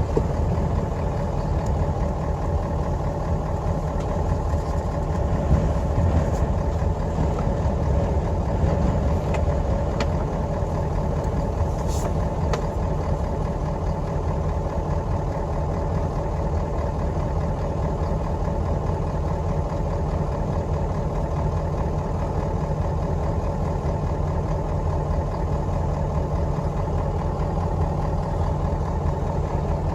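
A vehicle engine running steadily, an even low hum that holds without change.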